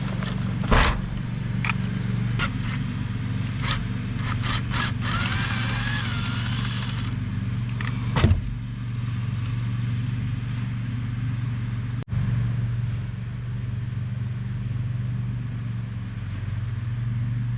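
A small engine running steadily, with a few sharp knocks and some scraping from hands working on a pressure washer's recoil pull-start housing.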